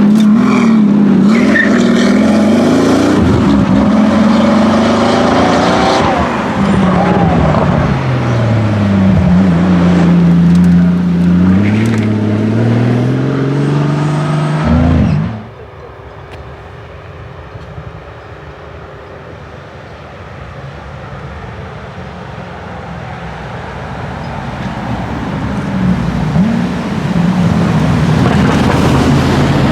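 Supercar engines revving and accelerating, the pitch rising and falling repeatedly. About halfway through the sound drops suddenly to a much quieter steady noise, then an engine grows steadily louder again as a car approaches near the end.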